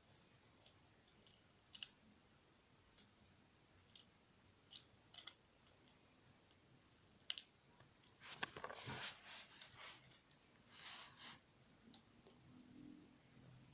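Faint clicks of small plastic Lego pieces being handled and pressed together: single clicks scattered at first, then a denser flurry of clicking and rattling from about eight and a half to eleven and a half seconds in.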